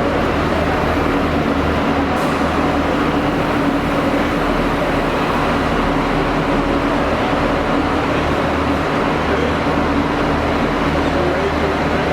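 Passenger train running: a steady, even rumble with a constant low hum.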